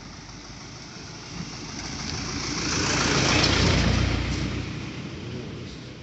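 A motor vehicle passing close by: its engine and tyre noise swell to a peak about three and a half seconds in, then fade away.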